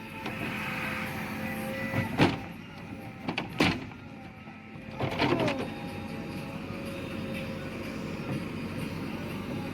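Construction machine engine running steadily, with a few sharp metallic knocks and clanks about two, three and a half, and five seconds in.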